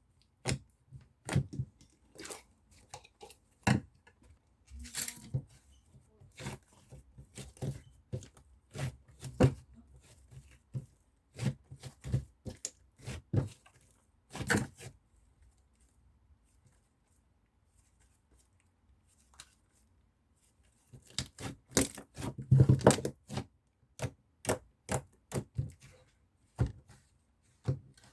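Hands squishing and pressing mixed slime, making irregular sticky clicks and pops. About halfway through they stop for roughly five seconds, then a dense run of pops follows.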